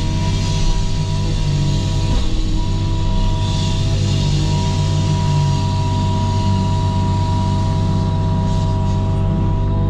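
Wacker Neuson mini excavator's diesel engine running steadily under work, with a high hydraulic whine over it and a few short knocks about 1 and 2 seconds in.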